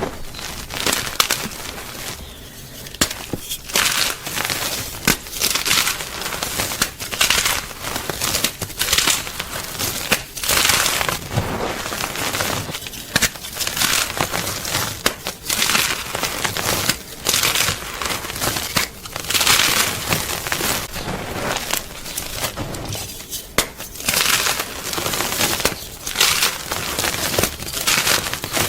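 Gym chalk being crushed, crunching and crackling in irregular surges about every second or two.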